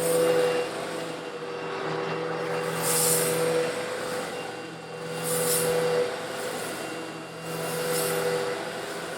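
Eureka vacuum cleaner running with a steady motor hum while sucking up small coarse stone granules, which rattle and hiss through the hose in four surges about every two and a half seconds.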